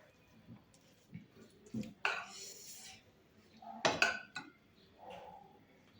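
Eating from a thali plate: scattered clinks and knocks of food and utensils on the plate, with a short scraping or crunching burst about two seconds in and the loudest knocks about four seconds in.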